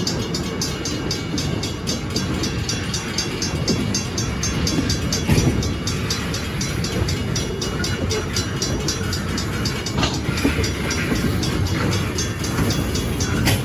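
Freight cars of a short-line train rolling past on the rails: a steady rumble with rapid, regular clicking and a few louder clanks about a third of the way in, two-thirds in and near the end.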